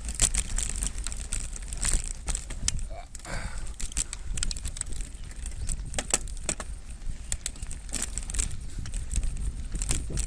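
Mountain bike rattling over a rough trail: many irregular sharp clicks and knocks from the bike over a steady low rumble of wind on the microphone.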